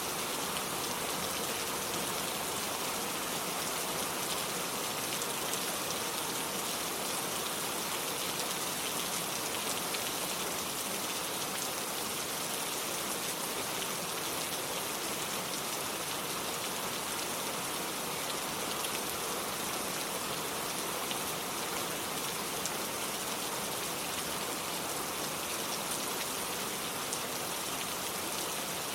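Steady rain falling, with a soft even hiss and fine patter of drops on surfaces.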